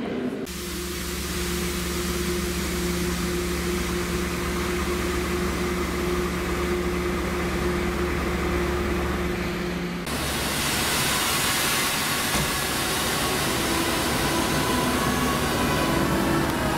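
Standing electric trains at a station platform, giving off a steady low electrical hum. About ten seconds in it changes to a louder, even whir from an EP2K electric locomotive standing with its equipment running.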